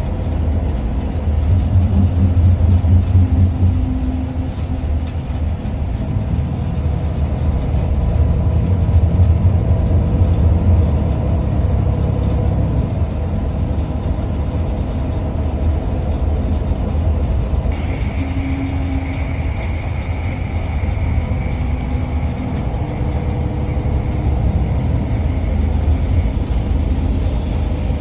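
Ride noise of a moving passenger vehicle heard from inside: a steady low rumble with a shifting hum. A faint steady high tone joins about two-thirds of the way through.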